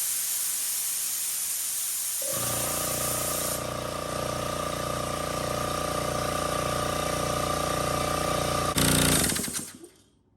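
Compressed air hissing out of the air compressor's hose, then about two seconds in the compressor's motor and pump kick on and run with a steady rhythmic pulse as the tank pressure drops, getting louder briefly near the end before stopping abruptly.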